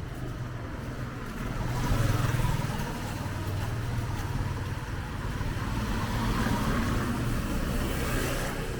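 Road traffic: vehicles passing close by, a low engine hum under a rush of tyre noise that swells about two seconds in and again toward the end.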